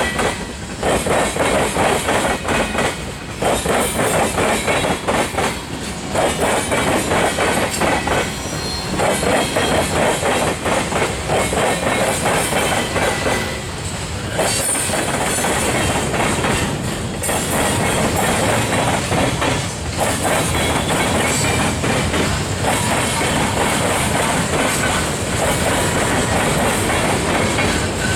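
Freight train cars rolling past over a rail diamond crossing: a continuous fast clatter of wheels banging over the crossing, with brief faint wheel squeal.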